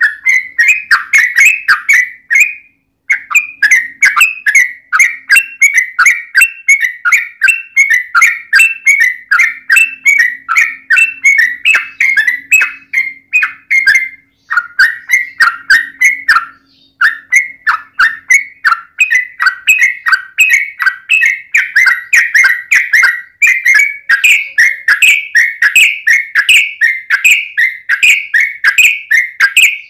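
Yellow-vented bulbul (trucukan) singing a long rapid run of bright, repeated chattering notes, about four or five a second, with a few brief pauses.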